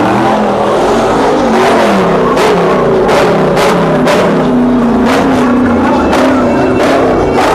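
Car engines revving up and down, rising and falling in pitch, with music playing over them to a steady beat.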